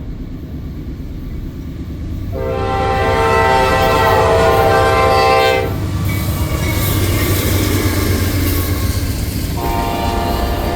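Horn of a Norfolk Southern freight train led by AC44C6M diesel locomotives, sounding a long chord blast for about three seconds starting about two seconds in, then a second blast near the end, over the steady low rumble of the approaching train.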